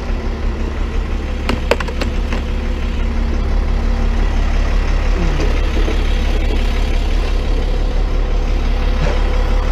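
Tow truck engine running steadily at idle, with a few sharp clanks about a second and a half in.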